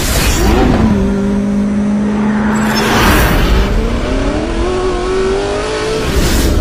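Sports car engine running at a steady note for about two seconds, then accelerating with its pitch climbing steadily. Whooshes come at the start, in the middle and near the end.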